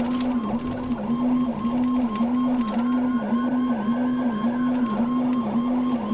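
Police car siren cycling rapidly, heard from inside the patrol car, its tone rising and falling about twice a second.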